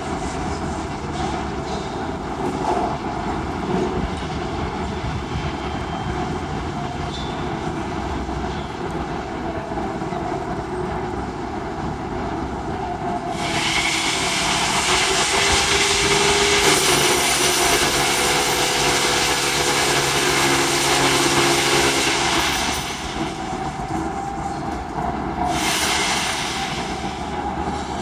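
Steady machinery noise at a construction site, with a loud hissing rush that comes in about halfway through, lasts about nine seconds, and returns briefly near the end.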